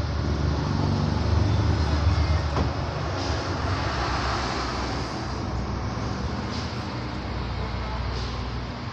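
Steady low motor hum with a hiss over it, swelling about a second in and easing off after the first few seconds.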